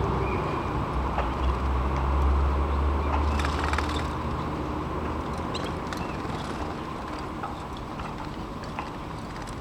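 A few short, faint canary chirps over a steady rushing noise and a low hum; the hum fades out about five seconds in.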